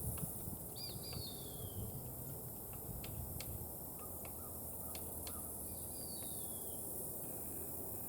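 Scattered light taps of a juvenile red-bellied woodpecker's bill striking a pecan held in a tree knot. Two short bird calls sliding down in pitch, about five seconds apart, sound over a steady low background rumble.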